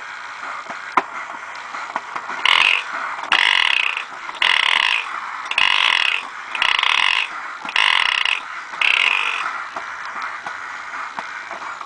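Vintage Japanese Hy-Que monkey toy running. Its mechanism whirs and clicks, and after a couple of seconds the toy gives seven squeaky calls about one a second, then goes back to whirring alone.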